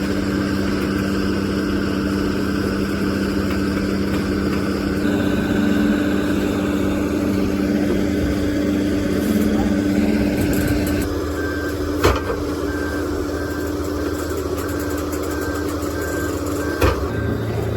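Excavator's diesel engine running steadily with a low, even hum. From a little past halfway, a repeating electronic alarm beeps, and two sharp knocks cut through, one about two-thirds in and one near the end.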